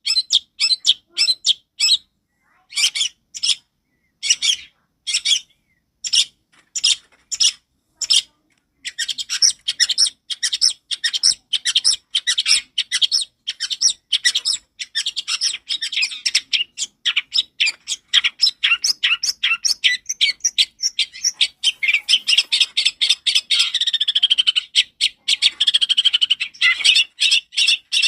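Long-tailed shrike singing loud, clear, high notes: short separate phrases with gaps for the first several seconds, then a fast, nearly unbroken run of chattering notes.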